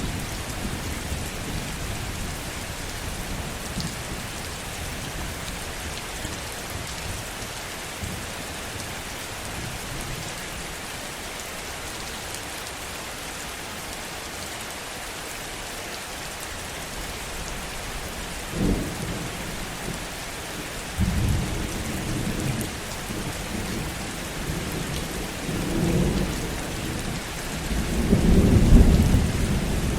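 Heavy rain falling steadily, with thunder. A short sudden clap about two-thirds of the way through, then rolling rumbles that grow louder toward the end.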